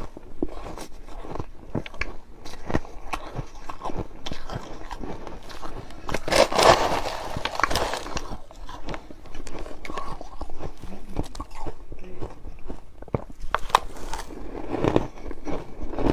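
Close-up crisp crunching and cracking of something brittle being crushed, a stream of sharp cracks with a denser, louder crunch about six seconds in and again near the end.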